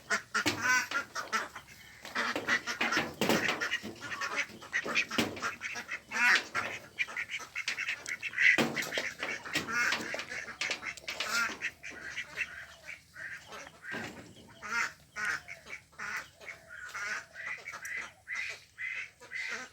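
A group of ducks quacking, many short calls overlapping in an irregular stream.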